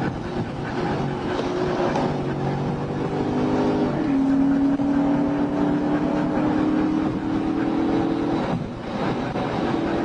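Car engine under hard acceleration, its pitch climbing slowly, then dropping sharply about four seconds in as the transmission shifts up, then climbing again before easing off near the end.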